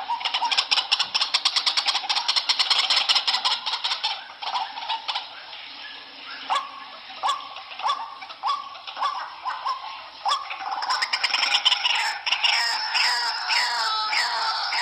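White-breasted waterhen calling, from a lure recording: a fast run of harsh, rapidly repeated notes, then separate calls spaced under a second apart, building again into a dense, harsh chorus in the last few seconds.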